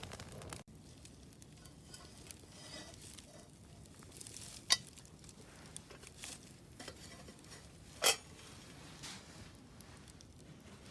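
Quiet camp-cooking sounds: a faint, even sizzle-like hiss with two sharp clicks about three and a half seconds apart, the second the louder.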